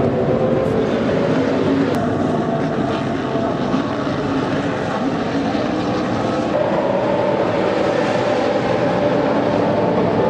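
Loud, steady drone of racing car engines running at speed, with a slowly wavering pitch and no single car rising or falling past.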